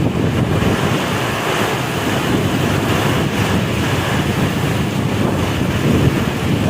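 Nor'wester storm wind buffeting the microphone: a loud, steady rushing roar with no let-up.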